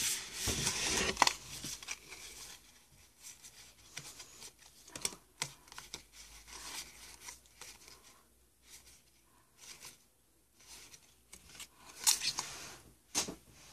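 Rustling, crinkling and light clicking of Pokémon trading cards and their foil booster-pack wrapper being handled, busiest in the first couple of seconds and again near the end.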